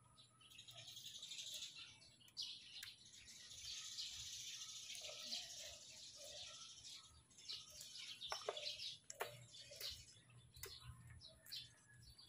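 Small birds chirping steadily, a dense high twittering, with a few short sharp clicks in the second half.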